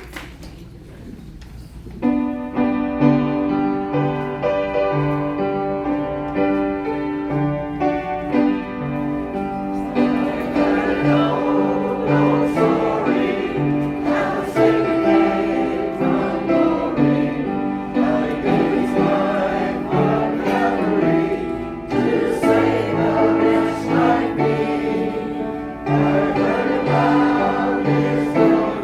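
An amateur choir singing to instrumental accompaniment. The accompaniment starts about two seconds in, and the voices join around ten seconds in.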